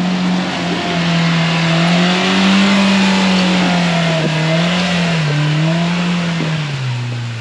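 Polaris RZR Pro R side-by-side's four-cylinder engine running under changing throttle while driving, its pitch rising and falling over a steady hiss, and dropping lower near the end.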